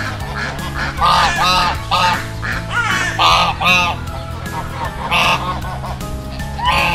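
Ducks quacking, several harsh calls in short runs of two or three, over steady background music.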